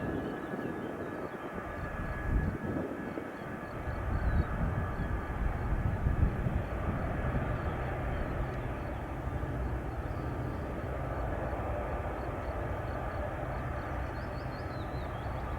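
Boeing C-17A Globemaster III's turbofan jet engines running, a steady jet rumble with a high whine; the low rumble grows stronger about four seconds in.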